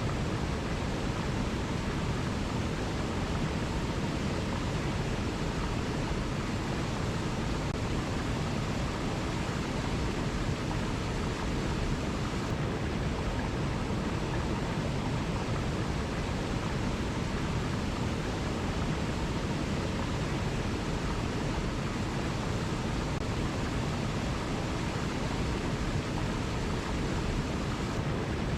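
Waterfall: a steady, unbroken rush of falling water, fullest in the low end.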